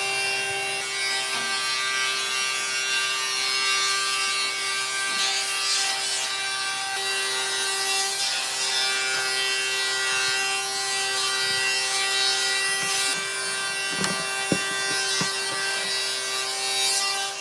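A power tool runs steadily with a constant hum while working wood, giving a continuous abrasive rubbing, rasping noise. There are a few short knocks about fourteen to fifteen seconds in.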